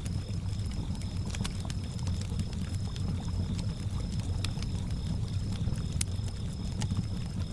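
Campfire crackling with scattered sharp pops, over a low steady wash of lake water lapping, while crickets keep up a continuous high trill.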